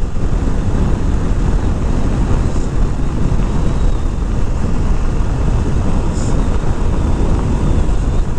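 Steady wind rush over the microphone from riding a 2021 Kawasaki Z400 naked bike at highway speed, with the motorcycle's 399 cc parallel-twin engine running underneath.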